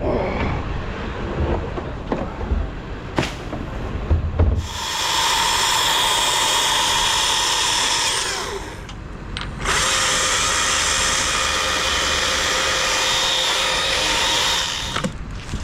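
Chainsaw running at full throttle in two long steady runs of about four and five seconds with a short break between, after a few seconds of scattered knocks.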